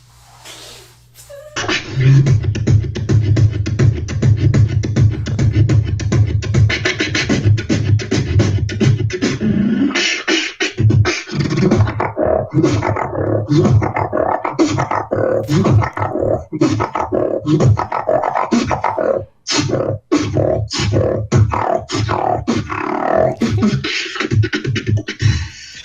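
Human beatboxing: a fast, dense run of mouth-made drum hits and clicks that starts about a second and a half in, with a deep held bass hum under the first several seconds, then a more broken, varied rhythm. It cuts out briefly twice about three-quarters of the way through.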